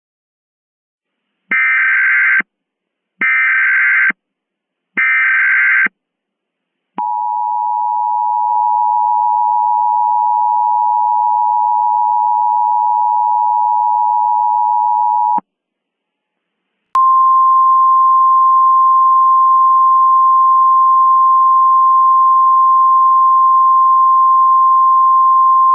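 Emergency Alert System tones. First come three short buzzy bursts of the SAME digital header, then the two-tone attention signal held for about eight seconds. After a brief pause, a single steady tone plays for about ten seconds.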